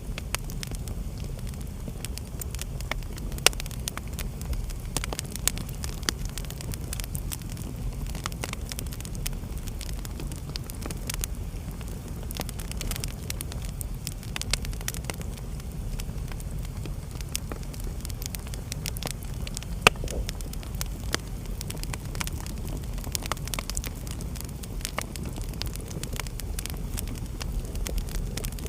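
Wood fire burning in a fireplace: a steady low rumble of flames with frequent irregular crackles and pops, two sharper pops standing out, one about three and a half seconds in and one about twenty seconds in.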